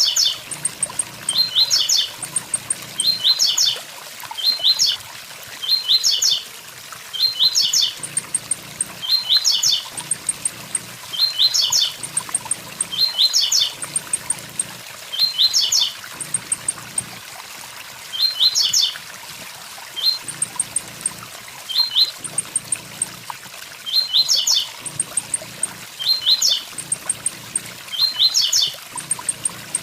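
Blue-black grassquit (tiziu) singing, repeating its short, high 'tui tui zel zel' phrase about once every second or so with brief pauses. A waterfall's steady rush runs behind it.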